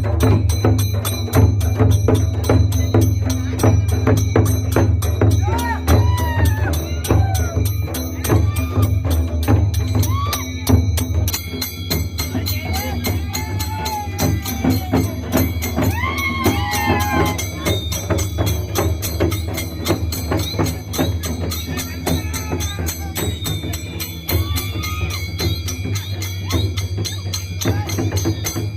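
Traditional festival drumming, a loud, fast, unbroken beat with jingling metal percussion over it and voices calling out among the players.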